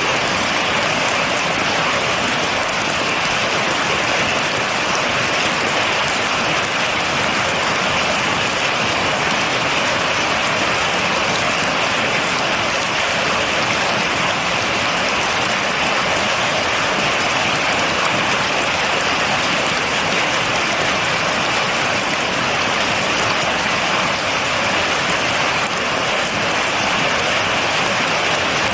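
Steady rain falling, a continuous even hiss with the fine patter of drops and no thunder.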